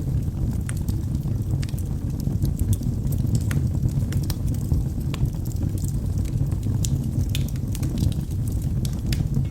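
Wood fire burning in a fireplace: a steady low rumble of flames with irregular sharp crackles and pops of the burning logs.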